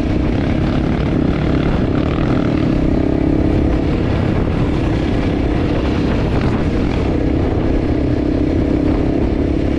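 Enduro motorcycle engine running steadily under way, over a constant rush of wind noise.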